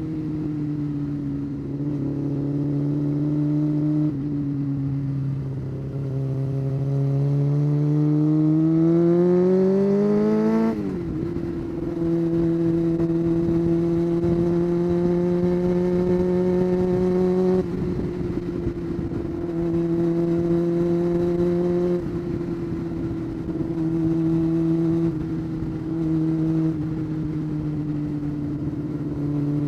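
Honda CBR600 F4 inline-four engine running under way. From about six seconds in, its pitch climbs as the bike accelerates, then drops sharply at an upshift. It then holds a steady cruising note, with the throttle easing off and back on a few times.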